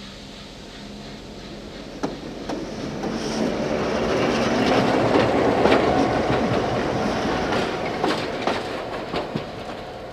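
Train rolling past, its wheels clicking irregularly over rail joints; the rumble swells to its loudest about halfway through, then fades.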